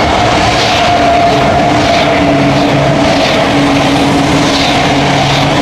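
High-speed train running: a loud, steady rushing noise with a steady hum beneath it.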